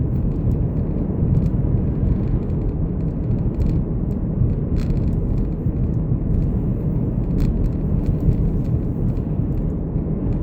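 Steady road and engine noise heard from inside a moving car's cabin, a constant low rumble with a couple of faint light clicks.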